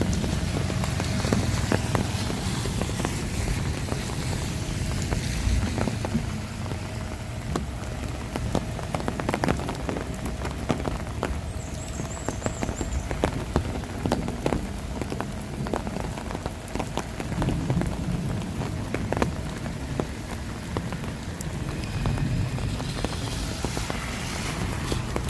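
Steady rain falling, with many sharp drop ticks over an even hiss and a low rumble underneath.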